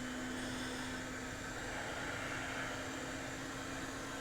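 Steady fan-like hiss with a low, even hum underneath.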